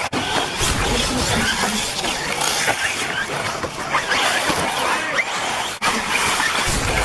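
Electric off-road RC buggies racing on a dirt track: short motor whines rising and falling as they speed up and slow down, over a steady noise of tyres on dirt. The sound breaks off briefly about six seconds in.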